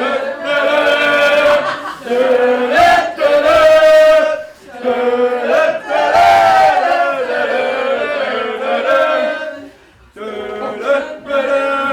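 Voices singing long held notes in phrases, with brief breaks about two, five and ten seconds in.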